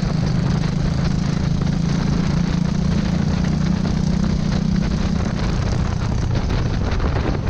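Go-kart engine running at steady speed; its note weakens about five seconds in.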